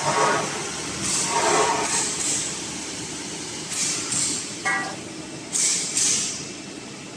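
CNC plasma cutting machine at work, with repeated bursts of hissing and a brief tone about two-thirds of the way through.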